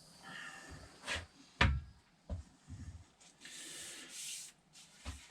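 Handling sounds: a few knocks and a heavier wooden thud as tools and objects are set down and picked up, then a hiss lasting about a second just past the middle.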